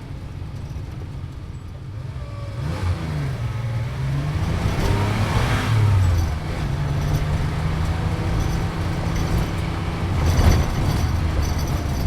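Sports car engine heard from inside the cabin while driving. Its pitch rises about four to six seconds in, drops abruptly near six seconds, then holds steady, with a brief louder surge about ten and a half seconds in.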